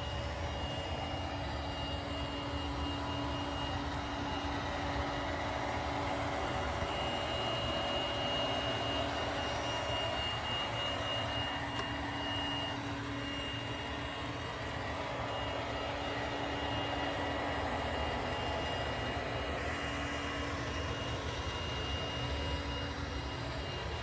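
iRobot Roomba Combo 10 Max robot vacuum running on high suction across carpet: a steady whirr with a high whine that fades and returns as it drives its cleaning rows.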